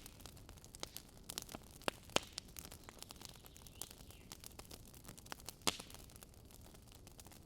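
Campfire burning wood, crackling with irregular sharp pops; the loudest snaps come about two seconds in and just before six seconds, with a brief faint hiss in the middle.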